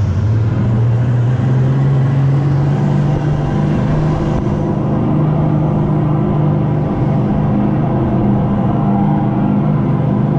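Rental go-kart engine running under power, a steady pitched hum whose pitch rises a little in the first couple of seconds and then holds.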